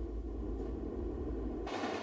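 Train running on the rails: a low, steady rumble that changes suddenly near the end to a higher rushing noise of wheels on track.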